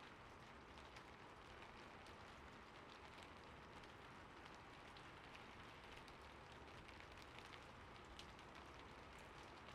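Faint, steady rain sound, with soft, irregular ticks of drops scattered through it.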